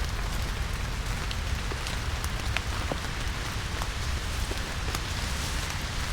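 Steady rain falling in a forest, with individual drops ticking sharply here and there over a continuous hiss and a low rumble underneath.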